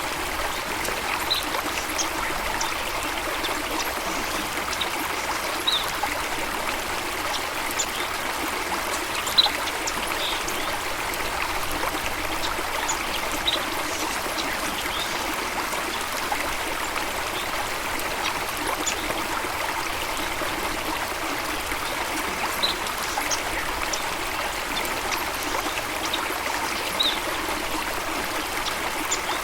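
Running water, an even, steady rush, with short high plinks scattered through it.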